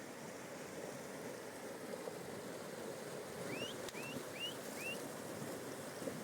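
Steady rush of a fast-flowing mountain river. About halfway through, a bird gives four short rising calls in quick succession.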